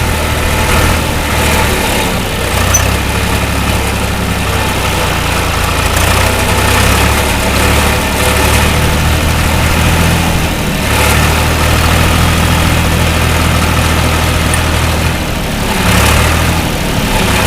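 John Deere 2240 tractor's three-cylinder diesel engine running as the loader tractor works in low gear, its note changing a few times with the load.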